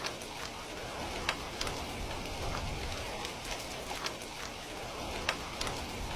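Steady rain with scattered sharp crackles and pops from a wood fire. Two louder pops come about a second in and near the end.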